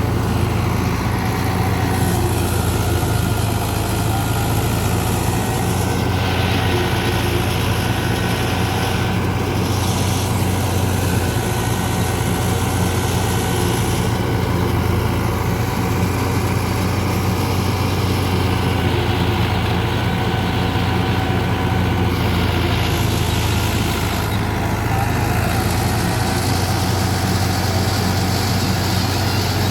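Fiat 640 tractor's diesel engine running steadily under load, driving a wheat thresher, with a rushing hiss from the threshing machine that swells and drops every few seconds.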